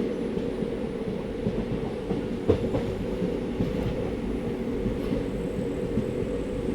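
Passenger train running on the rails: a steady rumble from the wheels and carriage, with small irregular knocks and one sharper knock about two and a half seconds in.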